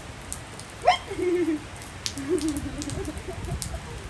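A bird cooing in low, wavering calls, twice, after a short sharp squeak about a second in, which is the loudest sound; light rain ticks throughout.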